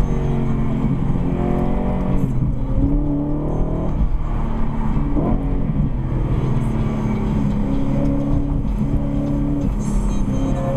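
Car engine running under way in city traffic, heard from inside the cabin, with road noise. The engine's pitch holds steady, then climbs briefly twice as it picks up revs.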